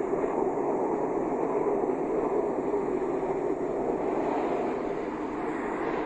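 Wind sound effect: a steady rushing noise that eases slightly near the end.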